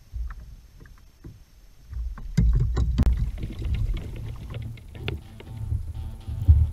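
Kayak on the water: a low rumble with scattered knocks and splashy clicks of water and gear against the plastic hull, getting much louder about two seconds in.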